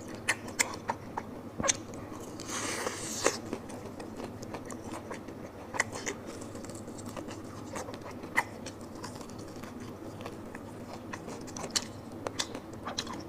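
Close-miked chewing and crunching bites of crispy fried chicken, with scattered sharp crackles. A short rustle about two and a half seconds in.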